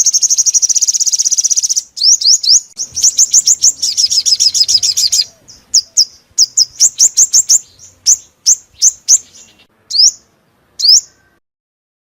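Sunbird singing: a rapid high trill, then quick runs of sharp rising notes that thin out into single upswept calls a second or so apart, stopping shortly before the end.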